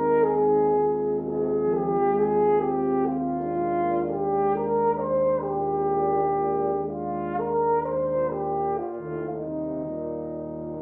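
Slow instrumental ensemble music: several held parts change notes together roughly once a second, in smooth sustained chords.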